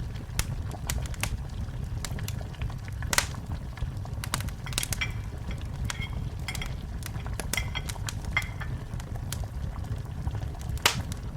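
Wood fire burning in a fireplace: irregular crackles and snaps over a steady low rumble, with two sharper pops about three seconds in and near the end. A few faint, brief high whistles come in the middle.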